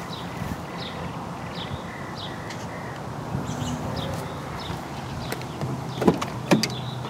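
Dodge Magnum R/T's 5.7-litre Hemi V8 idling steadily with no exhaust system fitted. Two sharp knocks about six seconds in.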